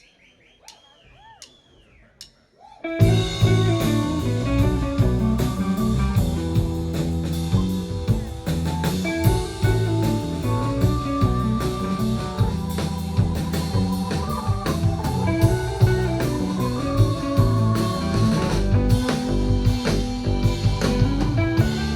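Live rock band with electric guitar, bass and drum kit starting a song. After a few faint sliding guitar tones, the full band comes in sharply about three seconds in and plays on steadily.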